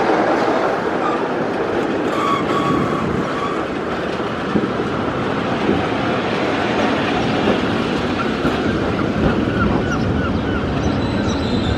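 Train running along the rails with a steady rumble and clatter of wheels, and short high squeals from the wheels on the rails a couple of seconds in, again later, and a sharper higher squeal starting near the end.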